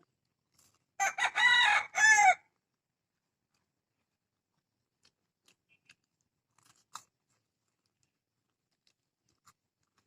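A rooster crowing once, about a second in, ending on a drawn-out rise and fall. A few faint clicks follow.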